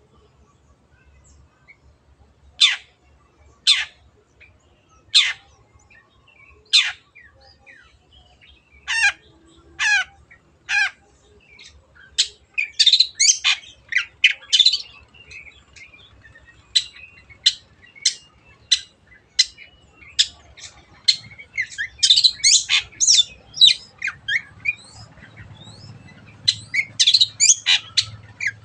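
Long-tailed shrike (cendet) singing in full voice: harsh, sharp calls, at first single and about a second apart, then running into quick, dense chattering from about halfway.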